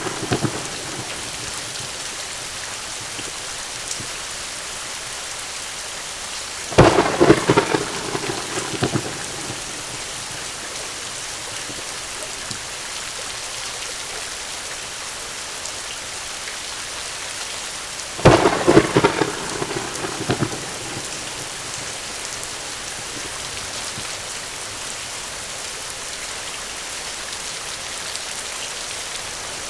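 Heavy rain falling steadily in an even hiss. A thunderclap breaks in with a sudden crack about seven seconds in and crackles and rumbles away over a couple of seconds. A second clap does the same about eighteen seconds in.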